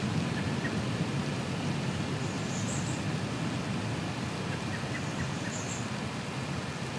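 Steady rain hiss over a low storm rumble that slowly dies away, with a few faint high chirps of a small bird about two and a half and five and a half seconds in.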